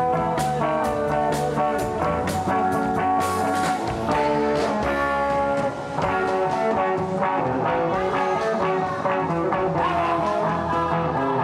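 Rock band playing an instrumental passage with guitar prominent and no singing, a guitar note bent upward about ten seconds in.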